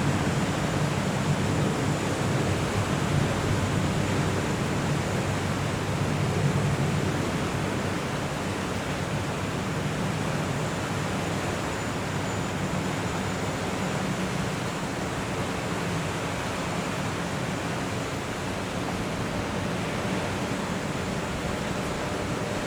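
Steady rushing noise of wind and water over a waterway, with the low hum of boat engines that is strongest for the first several seconds and then fades.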